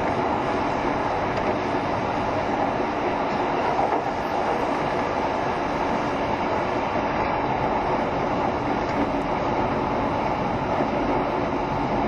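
JR Shikoku 7200 series electric multiple unit running steadily along the line. The wheels and motors make an even rumbling noise.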